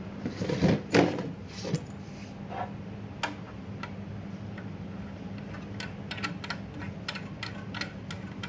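Small parts of a handheld laser welding head being handled during a protective lens change: a burst of rubbing and knocking early on, then a run of light, sharp clicks. A steady low hum runs underneath.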